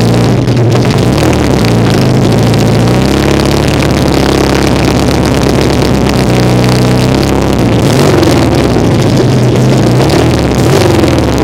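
1975 Kawasaki KZ400 cafe racer's parallel-twin engine running loud, its engine speed holding steady for stretches and rising and falling a few times.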